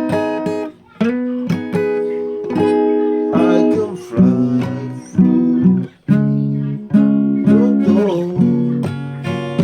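Acoustic guitar music: strummed chords ringing out, with two brief breaks between phrases.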